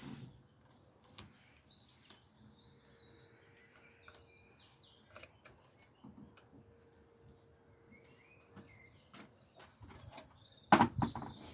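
Small birds chirping and twittering, with scattered faint clicks of handling. Near the end, a loud clatter of knocks.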